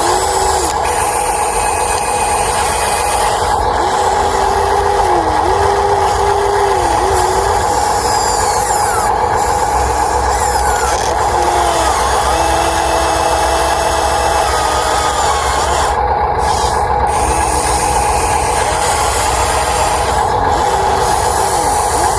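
Electric gear motors of a Huina 1593 RC excavator whining steadily. A second, lower motor whine starts and stops every second or few, bending slightly in pitch as it starts and stops.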